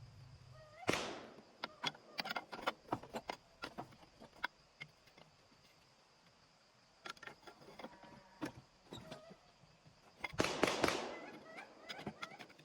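Metal clanks, knocks and rattles of hand work on an engine being pried loose on a hoist, with two short harsh rasping bursts, one about a second in and one near the end.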